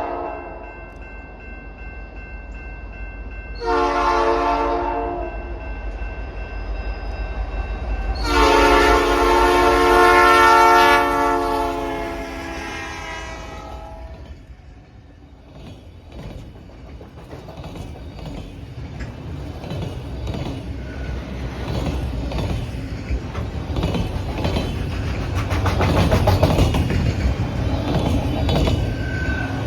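Freight locomotive horn sounding a multi-tone chord at a grade crossing: a short blast about four seconds in, then a long blast, the end of the standard crossing signal. Then the train passes, a low engine rumble with wheel clatter on the rails that grows louder toward the end.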